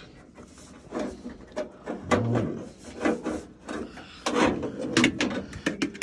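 Irregular clicks, knocks and rubbing of parts being handled and fitted as a new door lock is screwed onto a washer, with a low thump about two seconds in.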